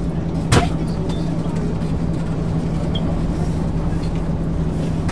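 Interior drone of a 1999 MAN ÜL 353 regional bus under way, its engine and running gear giving a steady, even hum. A single sharp knock sounds about half a second in.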